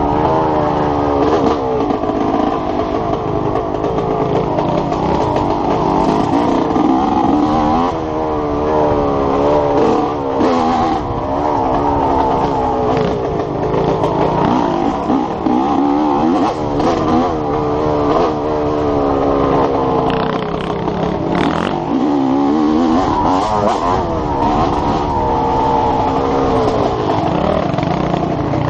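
Enduro dirt bike engine under hard riding, the revs rising and falling every second or two with throttle and gear changes. Wind on the microphone and the odd knock from the bike over bumps run beneath it.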